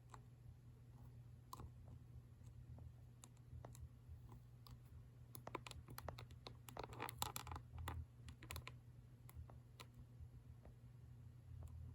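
Faint, scattered light clicks and taps, irregular and bunched together in the middle, over a low steady hum.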